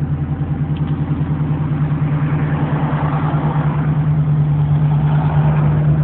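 1984 Camaro Z28's carbureted 350 V8 idling steadily on its automatic choke after a cold start, with an even, rapid exhaust pulse.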